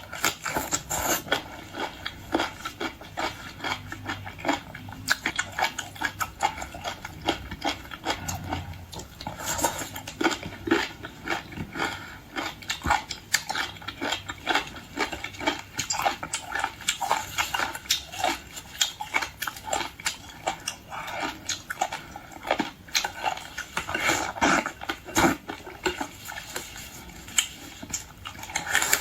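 Close-miked chewing of jellyfish: a steady run of small, quick mouth clicks and crunches, with now and then a light clink of cutlery.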